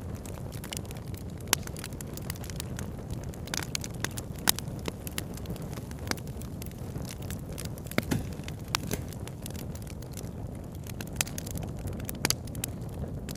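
Campfire crackling, with sharp irregular pops and snaps over a steady low rush of a flowing river.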